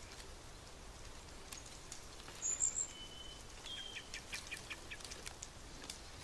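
Small birds calling: a short high chirp about two and a half seconds in, then two thin whistles, over a faint steady hiss with scattered light ticks.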